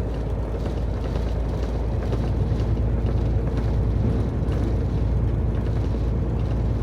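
Semi-truck driving on the highway, heard from inside the cab: a steady low diesel engine drone with road and tyre noise.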